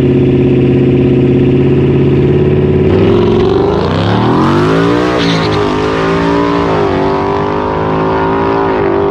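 Car engine running at a steady speed, then revving up and easing off about three seconds in, with a smaller dip a few seconds later before settling back to a steady drone.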